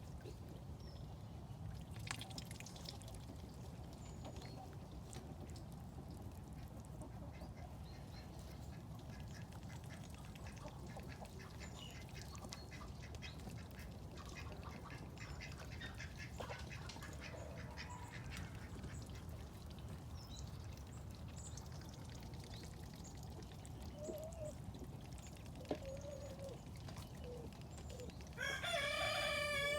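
Domestic poultry: a few soft, scattered duck calls over a steady low rumble, then one long, loud call near the end.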